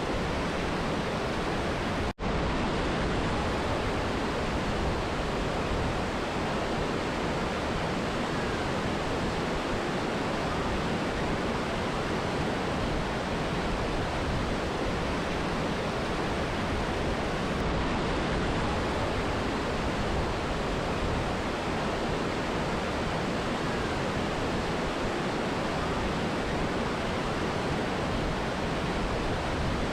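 Steady rush of a mountain river and waterfall, an even roar of water. It cuts out for an instant about two seconds in, like a splice in the recording.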